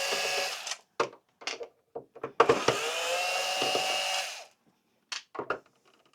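Small electric screwdriver motor spinning, undoing a screw: a short run that stops under a second in, a few clicks, then a second run of about two seconds, followed by more clicks.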